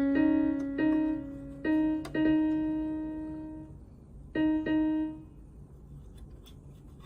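Background music: a few slow piano or electric-piano notes, some left to ring, with a short pause before the end.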